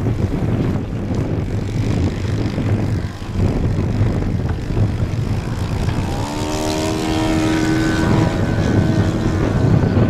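Wind buffeting the microphone, then about six seconds in a radio-controlled seaplane's engine and propeller come in, rising briefly in pitch and then running steady.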